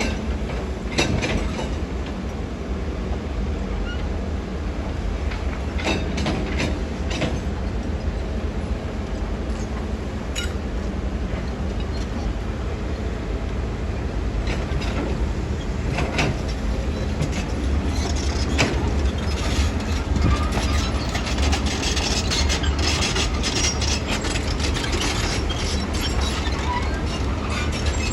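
Diesel engine of tracked earthmoving machinery running with a steady low rumble, with scattered metallic clanks and knocks from the steel tracks and moving parts. It grows somewhat louder in the second half.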